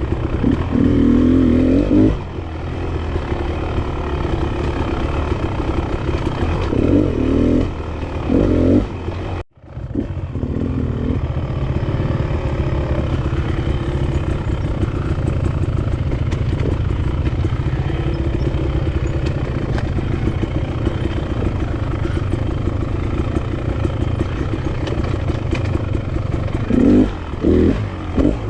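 Enduro dirt bike engine running while riding single track, the revs rising and falling with louder bursts of throttle now and then. The sound drops out for an instant about a third of the way in.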